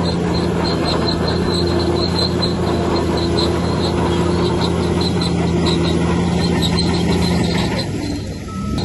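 Bulldozer's diesel engine running steadily under load while its steel tracks give a rhythmic high squeak, several times a second. The engine drops off briefly near the end, then picks up again.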